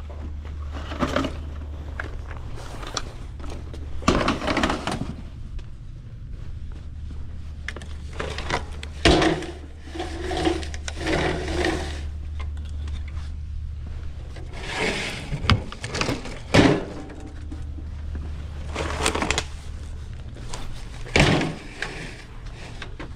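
Scattered knocks, scrapes and clatters of things being handled, with several sharp bangs, over a steady low hum.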